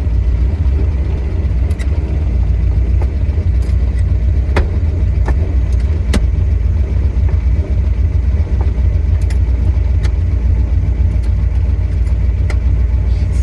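1989 Chevrolet S-10 pickup's engine idling steadily, with a few scattered light clicks over the idle.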